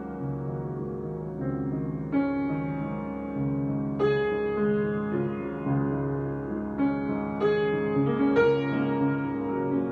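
Slow, improvised solo keyboard music with a piano-like tone: long-held chords in the low and middle range, with a new chord or melody note struck every second or two.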